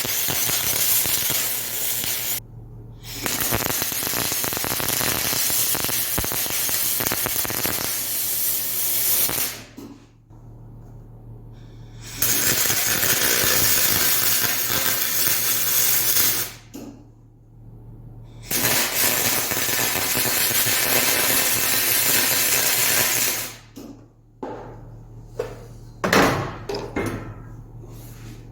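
Aluminum MIG welding with a spool gun: the arc hisses and crackles in four runs of a few seconds each, with short pauses between, over a steady electrical hum. A few knocks near the end.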